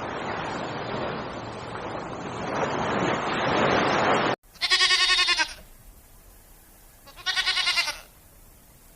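A dense, noisy din fills the first four seconds and cuts off suddenly. Then a goat bleats twice, two loud wavering calls a couple of seconds apart.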